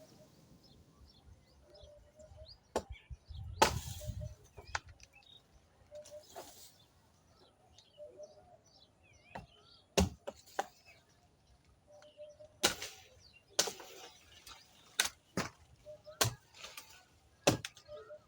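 Hand-tool blade chopping into moringa wood: about a dozen sharp strikes at an uneven pace, coming faster in the second half, with one longer, heavier noise about four seconds in. Small birds chirp faintly between the strikes.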